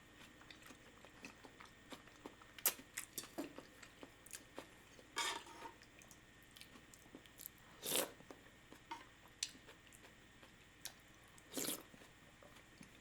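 Close-miked eating sounds: chewing, with scattered wet mouth clicks and smacks and a few louder bursts about five, eight and twelve seconds in.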